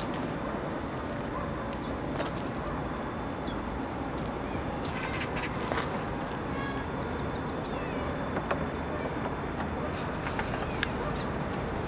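Small birds chirping over a steady background rush, in many short, high chirps that fall in pitch, with a couple of sharp clicks about five to six seconds in.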